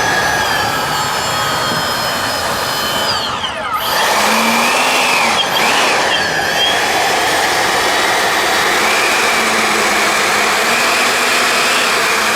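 Twin 90 mm electric ducted fans on an RC airliner model running with a steady rush of air and a high whine. About three seconds in the whine drops sharply and climbs back as the throttle is pulled back and pushed up again, with another brief dip about six seconds in.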